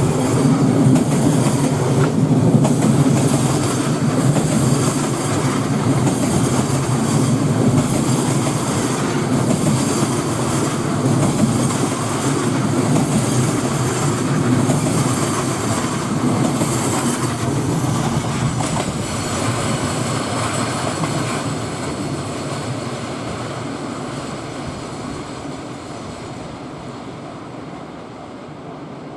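A train running through, wheels clattering over the rails, with thin high squeals from the wheels, then fading away over the last ten seconds or so.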